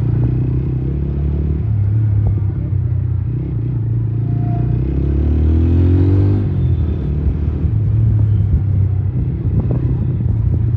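Motorcycle engine running steadily while riding on the road, with road rumble; the sound swells briefly about halfway through.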